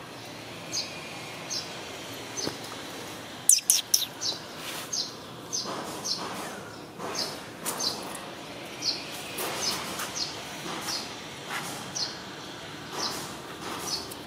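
A small bird chirping over and over, one short high chirp about every second, with a quick cluster of louder, sharper notes about three and a half seconds in.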